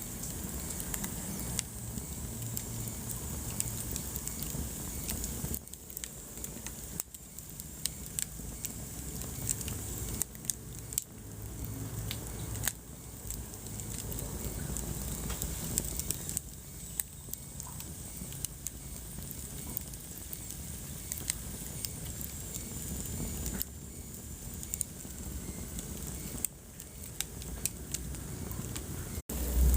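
Wood fire burning in a fireplace: frequent sharp crackles and pops from the burning logs over a low, steady rush of flame.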